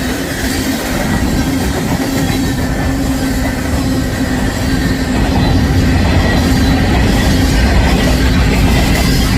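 Eastbound Union Pacific grain train's covered hopper cars rolling past: a steady rumble of wheels on rail with clacking and a faint held squeal, getting somewhat louder about halfway through.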